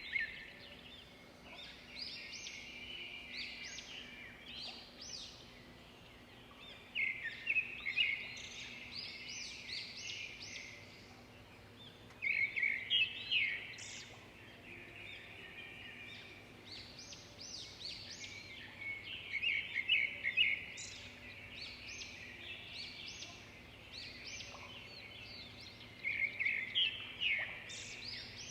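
A songbird singing: phrases of rapid chirps and trills, a fast trill followed by higher chirps, repeated about every six or seven seconds.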